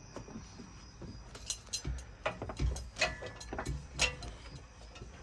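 Gear-driven Daytona engine stand being cranked to rotate a mounted 6.9 L IDI diesel engine: irregular metallic clicks from the gearing with a few low clunks, starting about a second in.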